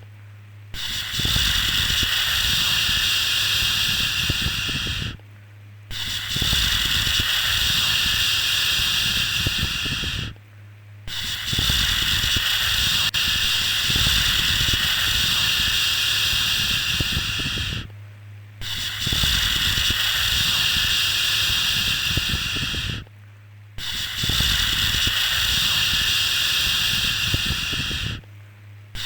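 A long drawn-out 'shhh' shushing sound, repeated five times. Each shush lasts about four to seven seconds and is followed by a brief pause of under a second. A low steady hum runs underneath.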